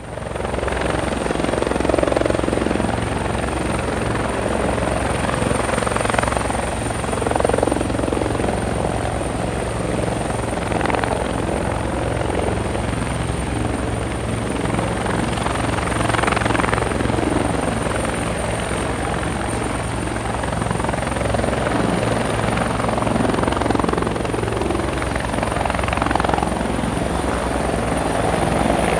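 Helicopter running, a steady fast rotor chop under engine noise with a thin high whine, starting abruptly from silence and holding level throughout.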